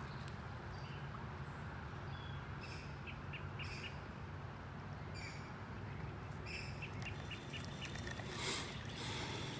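Short bird calls, high and chirping, repeat now and then over a steady low hum. About eight and a half seconds in comes one louder, harsh clack, which is taken for a green heron's call.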